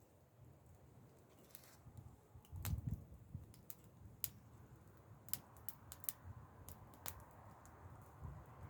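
Wood fire crackling faintly, with irregular sharp pops and ticks. A low rumble runs underneath, with one louder thump about two and a half seconds in.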